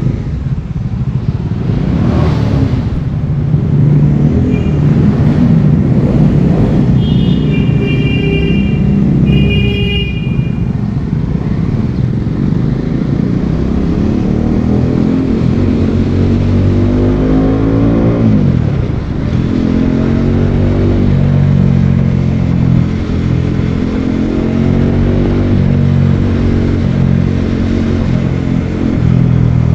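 Bajaj Dominar 400's single-cylinder engine under way, its pitch climbing as it accelerates, dropping at a gear change about 18 seconds in, then pulling up again. A vehicle horn honks twice, around 8 and 10 seconds in.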